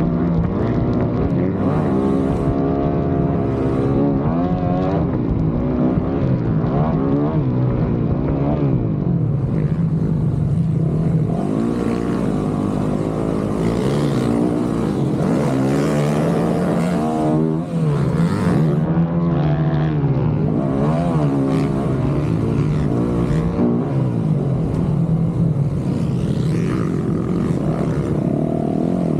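Dirt bike engine revving hard and easing off again and again as the bike is ridden, its pitch climbing and falling every second or two.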